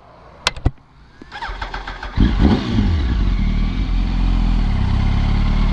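Two sharp clicks, then a motorcycle engine starts about two seconds in, revs briefly and settles into a steady run.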